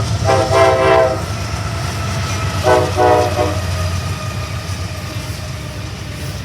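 Diesel locomotive's multi-tone air horn: a blast that ends about a second in, then two short toots about three seconds in, over the steady low rumble of the passing train.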